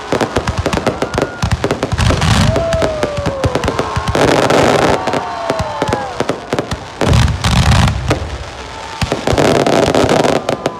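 Aerial fireworks display: a rapid run of bangs and crackling, with heavier clusters of booms every couple of seconds and whistles that slide down in pitch.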